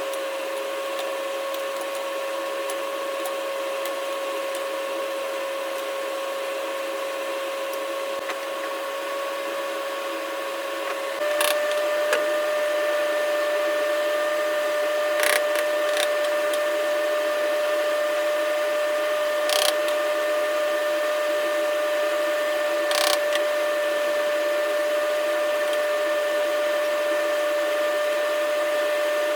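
A small power tool's electric motor running steadily with a constant whine. About eleven seconds in it steps up a little in pitch and loudness, and a few sharp ticks follow.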